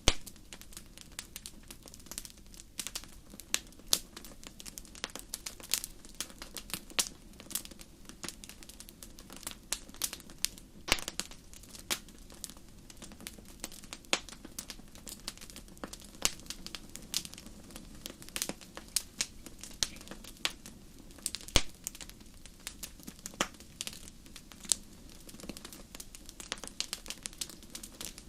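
Wood campfire crackling: irregular sharp pops and snaps, several a second, some much louder than the rest, over a low steady rumble of the burning fire.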